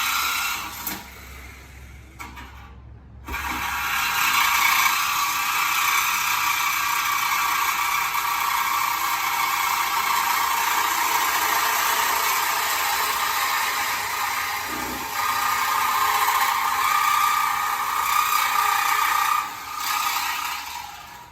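A shop power tool running at length on a car's exhaust as the muffler is taken off: a steady, loud mechanical noise that starts about three seconds in and goes on with a couple of brief dips.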